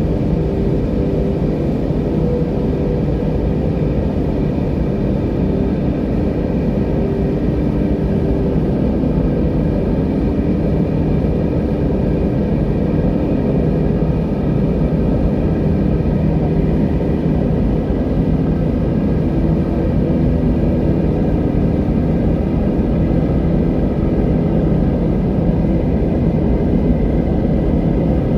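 Steady, low rumble of wind, with faint humming tones mixed in.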